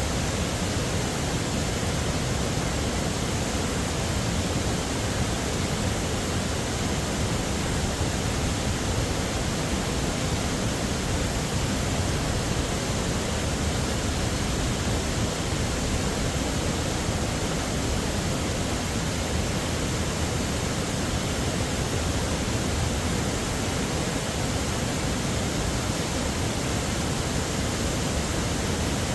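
Heavy waterfall: a steady, unbroken rush of falling water, fuller in the low end, with no other events.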